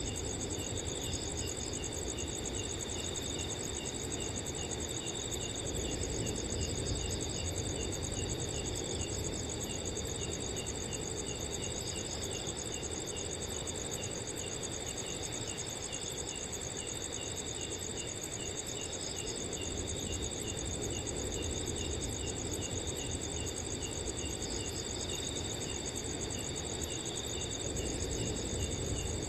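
Night chorus of crickets: a continuous high trill, with a lower cricket chirping in a fast, even rhythm. Under it is a soft, steady low rush of wind.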